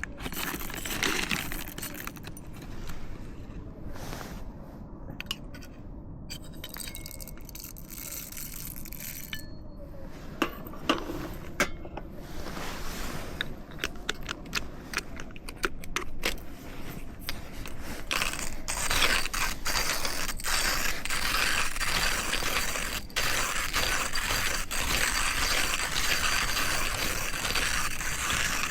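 Repeated small clinks, clicks and scrapes of hard objects being handled, with a denser steady hiss filling in from about two-thirds of the way through.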